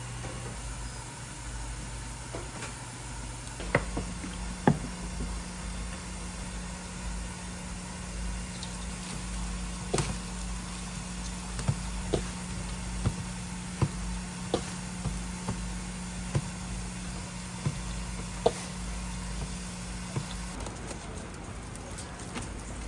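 Food-stall kitchen work: scattered sharp clacks and knocks, like utensils striking cookware, over a steady low hum of equipment that changes pitch about four seconds in and stops near the end.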